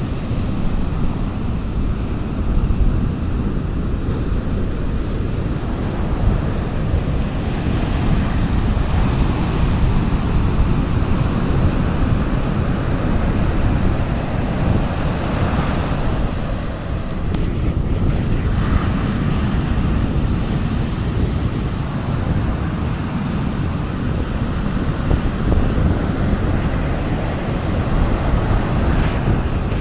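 Sea waves washing onto a beach in a continuous rush that swells and eases gently, with wind buffeting the microphone.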